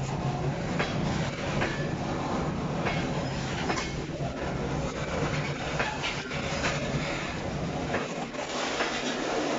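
Train rolling along the track, its wheels clicking irregularly over rail joints above a steady rumble. The deepest part of the rumble drops away near the end.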